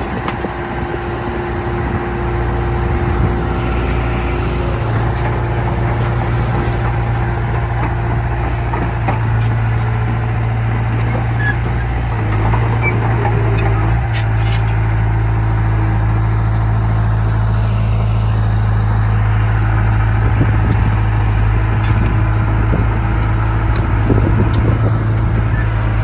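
Heavy diesel engine of earthmoving machinery running steadily under load, a deep continuous hum that shifts slightly in pitch about halfway through.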